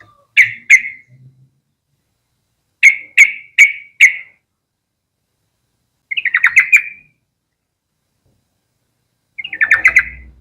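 Yellow-vented bulbul calling in short bursts of sharp chirping notes: two notes, then four evenly spaced ones, then two fast chattering runs.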